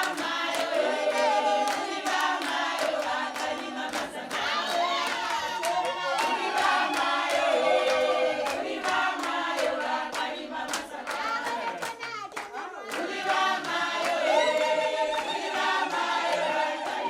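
A group of voices singing together in chorus, with hand clapping over the song.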